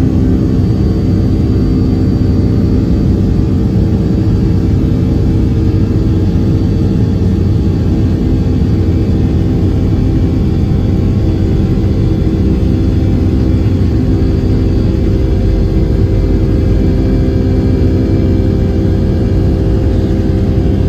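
Boeing 757-200's Pratt & Whitney turbofan engines heard from inside the cabin, a loud steady drone with a low rumble and several held low hums.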